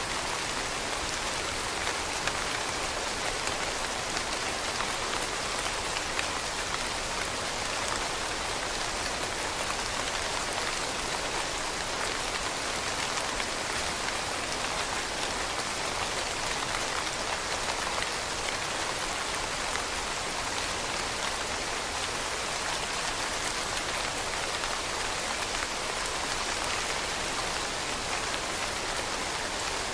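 Steady rain falling on leaves, a dense even patter of drops.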